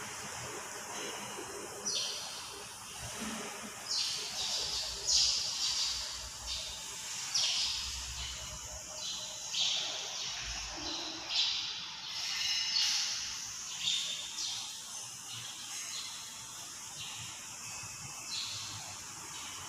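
Birds chirping: a long run of short, high-pitched chirps at irregular intervals, roughly one a second, over a steady faint hiss of room noise.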